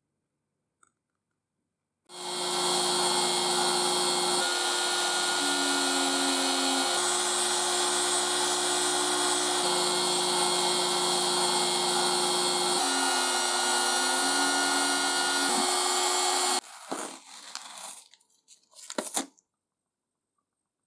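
A power tool running steadily, its pitch stepping to a new level several times, then cutting off abruptly, followed by a few short, irregular noises.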